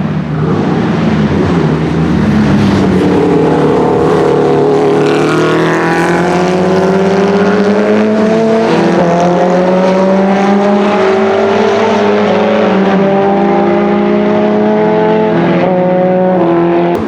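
Porsche 904 GTS's Type 587/3 four-cylinder boxer racing engine running loud under acceleration, its pitch climbing steadily with a brief dip about nine seconds in and again near the end.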